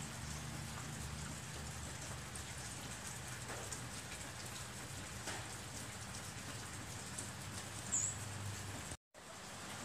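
Steady rain falling, an even patter with scattered drips. About eight seconds in there is a brief high squeak, and the sound drops out for an instant just after it.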